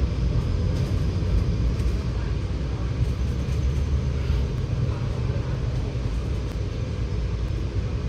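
Scania K94UB single-deck bus's diesel engine running as the bus drives, a steady low rumble with no change in pitch.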